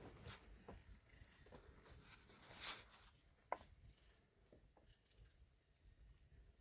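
Near silence with faint handling sounds: soft rustles and small clicks, with one sharper click about halfway through.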